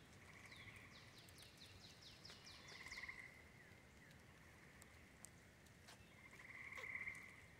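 Faint bird song in near quiet: a run of quick falling chirps in the first few seconds, with a faint buzzy trill repeating three times.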